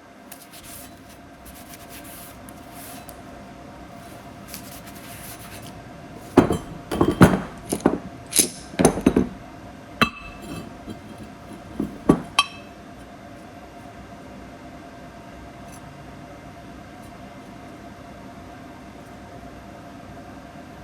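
Metal clanking and clinking: a run of sharp knocks and rattles, pieces of cut steel plate striking each other and the table, over about six seconds in the middle, above a steady machine hum.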